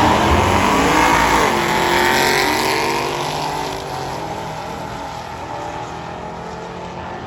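Street cars launching down a drag strip at full throttle, engine pitch rising as they accelerate away. The sound fades steadily after about three seconds as the cars pull into the distance.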